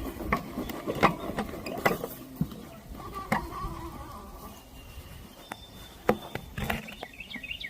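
Handling noise on the phone: scattered knocks and scrapes close to its microphone, most of them in the first few seconds.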